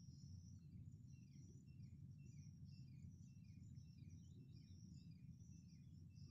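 Faint outdoor ambience: a low steady rumble under a bird calling in a quick series of short falling chirps, with thin higher chirping above.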